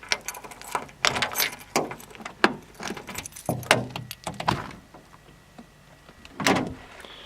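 Keys jangling and a scattered series of clicks and knocks as a van's door is unlocked and opened, with one louder knock about six and a half seconds in.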